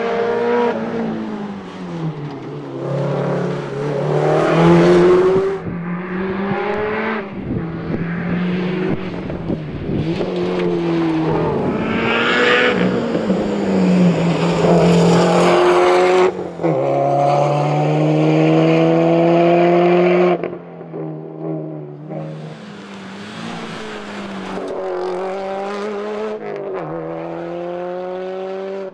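Subaru WRX STI rally car's turbocharged flat-four engine at full throttle, its pitch repeatedly climbing and then dropping with each gear change. The level falls sharply about twenty seconds in, and the car then pulls through the gears again.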